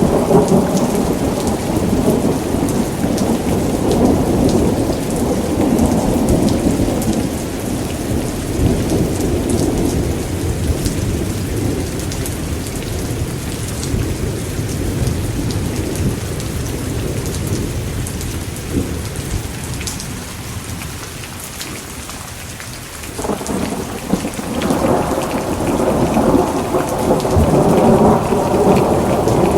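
Thunderstorm: steady heavy rain with long, rolling thunder rumbling underneath. The rumble fades about two-thirds of the way through, then swells back in strongly near the end.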